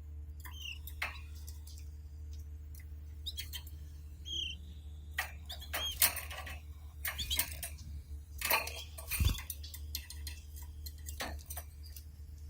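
Canaries moving about their cage: scattered clicks and taps, denser in the middle, with a few brief high chirps, over a steady low hum.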